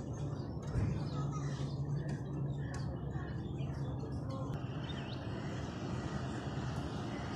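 Moving passenger train heard from an open carriage door: a steady rumble and low hum of the running train, with short high chirps and a few sharp clicks in the first half.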